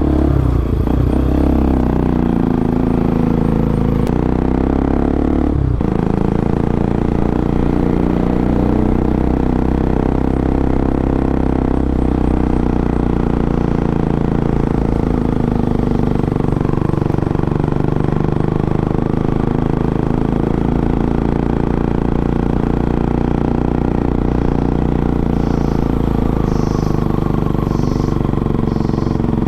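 Bajaj Pulsar NS200's single-cylinder engine running through an Akrapovic exhaust with the dB killer removed, heard while riding. Its pitch rises and falls with the throttle, with a brief break about six seconds in.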